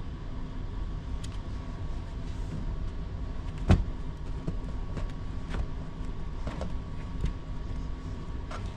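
Scattered light clicks and one sharp knock about four seconds in, from bowls of snow being handled and set down, over a steady low hum.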